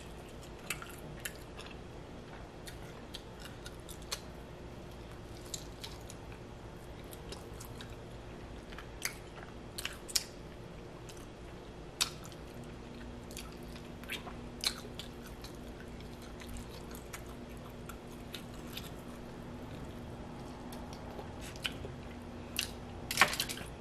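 A person chewing and biting meat off barbecued baby back ribs: scattered sharp mouth clicks and smacks, with a few louder ones in the middle, over a faint steady hum.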